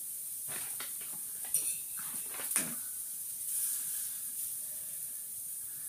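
Small plastic toy parts being handled, with a few light clicks and taps between about one and a half and two and a half seconds in, over a steady hiss.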